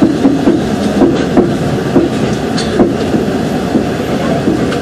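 A moving passenger train heard on board: a steady rumble of the carriage wheels on the track, with irregular clacks as the wheels cross rail joints, thickest in the first three seconds and sparser after.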